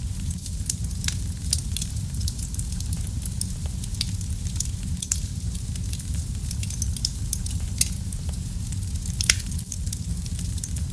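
Wood fire crackling in a fireplace: scattered sharp pops and snaps over a steady low rumble of the flames, with a louder pop about nine seconds in.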